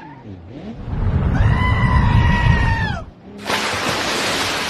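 A loud, long high-pitched scream held on one pitch over a low rumble, dropping in pitch as it ends, followed after a short gap by a burst of loud hiss.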